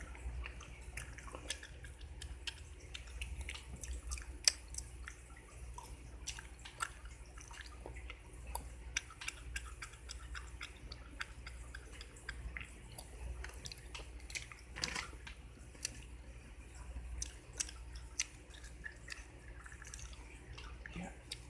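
Close-miked gum chewing, exaggerated for ASMR: a steady run of irregular wet smacks and clicks of mint gum in the mouth, with one sharp snap about four and a half seconds in, over a low steady hum.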